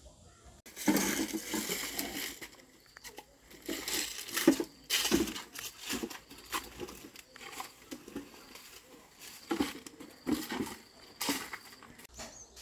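Irregular crackling and crunching, like dry material being handled or trodden on, coming in uneven spells with short pauses between.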